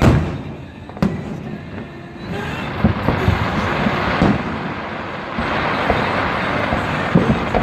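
Fireworks going off: a sharp bang at the start and another about a second in, then from about two seconds a dense, steady crackle with repeated deep booms.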